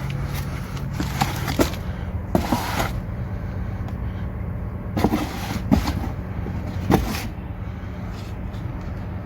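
Scattered clinks and knocks of parts and tools being handled, with a short scraping or hissing burst about two and a half seconds in, over a steady low hum.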